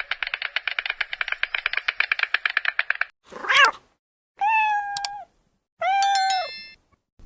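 A fast rattling series of clicks for about three seconds, then a cat's short cry followed by two drawn-out meows.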